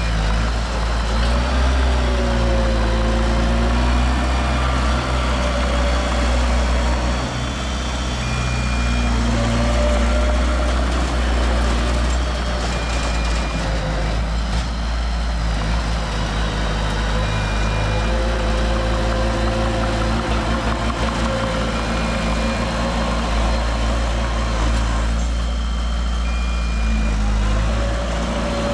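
Heavy diesel construction machinery running, its engine pitch rising and falling as it works under load. A reversing alarm beeps briefly every couple of seconds over it.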